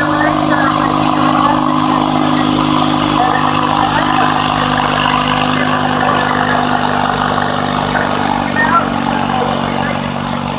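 Bolens garden tractor's engine running loud and steady at an even pitch while pulling.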